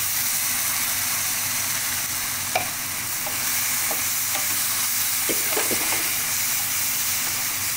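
Ground onion paste hitting hot oil and spices in a frying pan, sizzling loudly and steadily from the moment it goes in. A wooden spatula stirs it, with a few faint scrapes.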